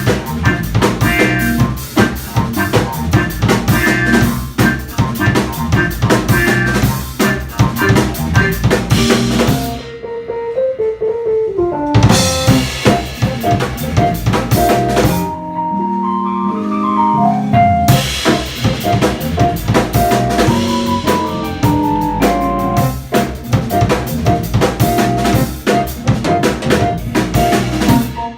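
Live jazz band of guitar, piano, bass and drums playing, with a busy drum kit on snare, bass drum and rimshots. The drums drop out twice for a couple of seconds, about ten and fifteen seconds in, leaving only the pitched instruments, then come back in.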